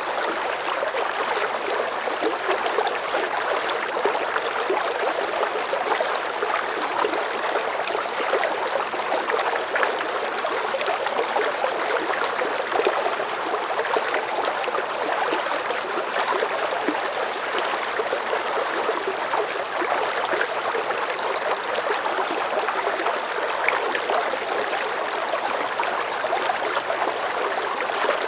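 Water running steadily in a stream: an even, unbroken rushing that neither rises nor falls.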